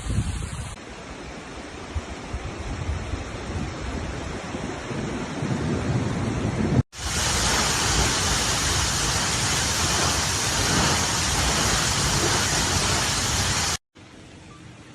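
Storm noise over three spliced clips: first a gusty, rumbling rush, then after a sudden cut a louder steady hiss of heavy rain, and near the end another cut to a much quieter hiss.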